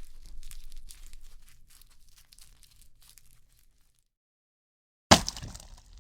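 Meat sound effect: a wet, crackling tearing of meat that fades away over about four seconds. After a short silence a new meat effect starts with a sudden loud hit about five seconds in.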